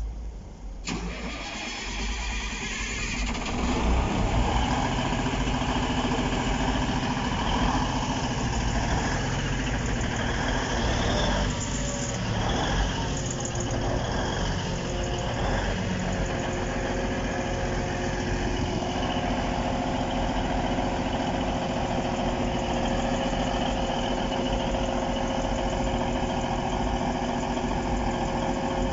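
A diesel engine running, building up over the first few seconds and then holding a steady idling hum with several even tones.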